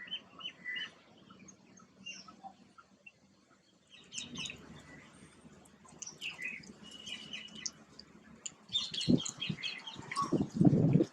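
Small garden birds chirping and twittering in short high calls, getting busier partway through. Near the end comes a run of louder low scuffling noise.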